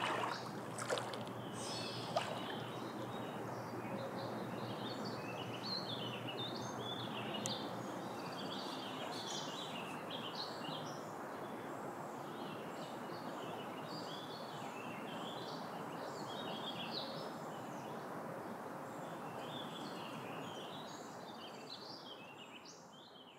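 Songbirds chirping again and again over a steady outdoor hiss, the whole fading out near the end.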